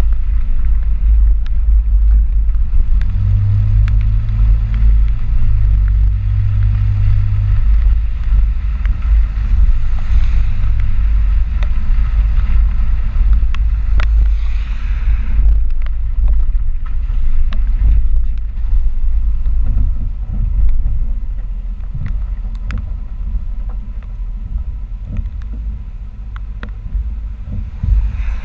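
Ford four-wheel-drive pickup truck driving: a loud, steady low rumble of road and wind noise. A low hum swells for a few seconds between about three and eight seconds in.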